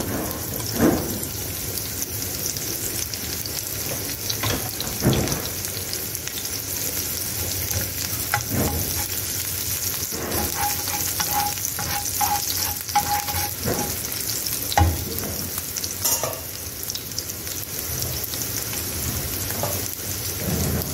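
Sliced garlic and shallots sizzling in hot oil in a nonstick frying pan, with a steady hiss. A slotted metal spatula stirs them, knocking and scraping against the pan now and then.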